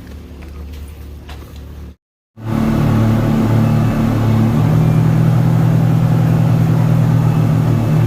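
An engine running with a loud steady drone and a low hum. A quieter low rumble comes first, and the louder drone begins after a short break about two seconds in.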